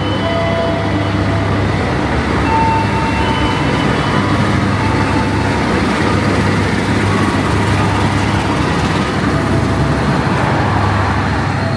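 Passenger train rolling into the station platform: a steady rumble of the locomotive and carriages with a constant low hum and a few faint brief squeals.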